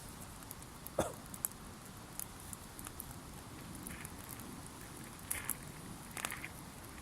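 Wood campfire crackling, with scattered small pops and a sharper pop about a second in.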